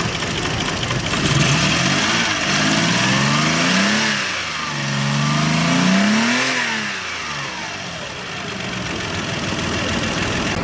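Lexus RX300's 3.0-litre V6 engine revved twice, its pitch climbing and falling back each time, then running steadily.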